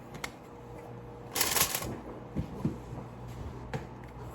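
Kitchen handling noises while ribs are seasoned: a short, loud rustle about a second and a half in, with a few light clicks and dull knocks around it, over a faint steady hum.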